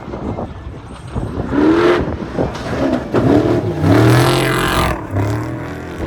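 Off-road race vehicles running hard at full throttle, engine pitch rising and falling as they rev and pass. It is loudest about two seconds in and again around four to five seconds in.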